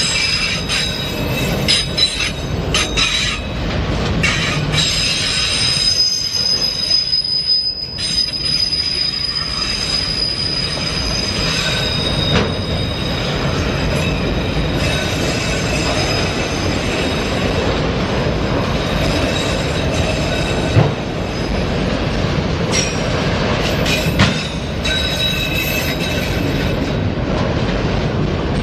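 Norfolk Southern freight train of enclosed autorack cars rolling past close by: a steady rumble of steel wheels on rail with scattered clicks and knocks, and a thin high wheel squeal that rises and fades, strongest from about four to twelve seconds in.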